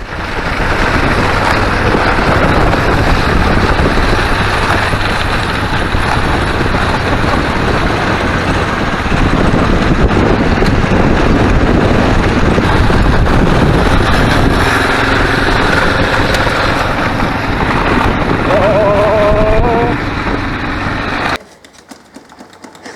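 Motorcycle riding at speed, with engine noise and heavy wind rushing over the microphone. It cuts off abruptly about 21 seconds in. A short rising tone sounds just before the cut.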